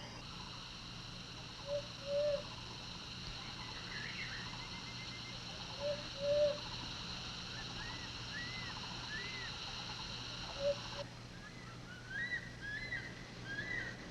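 Forest ambience: a steady high insect drone that cuts off about eleven seconds in, over which a bird gives short low two-note calls three times and other birds make small high chirps, most of them near the end.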